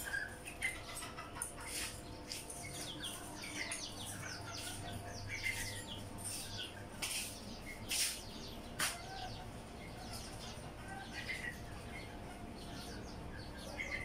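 Small birds chirping, many short high chirps at irregular intervals, with a few sharp clicks in the middle.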